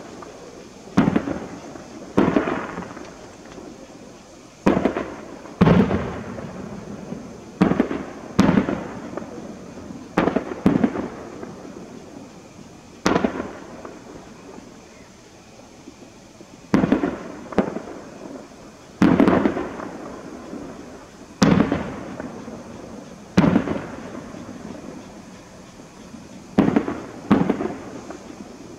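Aerial fireworks bursting: about fifteen sharp booms at uneven intervals of one to three seconds, each trailing off in a rolling echo.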